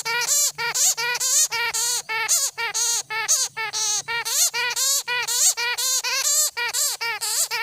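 An animal caught in a bird net calling without pause in rapid, high-pitched squeals, about four to five short rising-and-falling cries a second: distress calls from the trapped animal.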